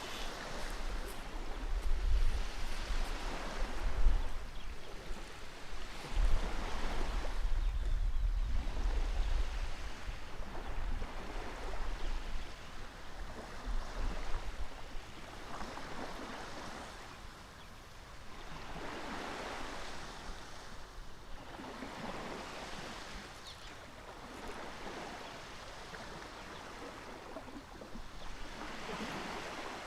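Water waves washing in, a hiss that swells and fades every few seconds. For roughly the first ten seconds, wind buffets the microphone with a low rumble.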